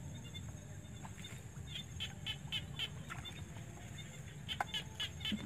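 A bird calling in two quick runs of short, high notes, about four a second, over a steady low background rumble of the evening marsh.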